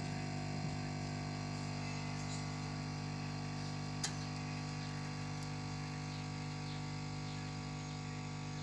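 Steady electrical hum, several constant low tones together, with a single sharp click about four seconds in.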